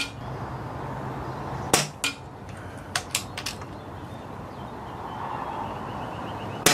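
.177 air rifle firing twice, a sharp crack about two seconds in and another at the very end, with a few lighter clicks in between. Wind noise on the microphone.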